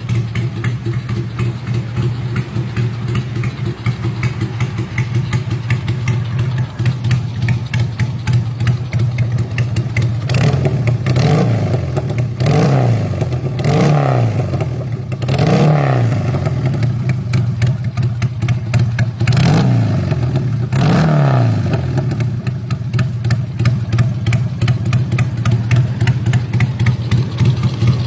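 Two-cylinder Honda Supra motorcycle engine running with no muffler on the exhaust, idling with a loud, even beat. From about ten seconds in it is revved in about six short throttle blips, each rising and falling quickly back to idle. The open pipe makes it sound like a Harley.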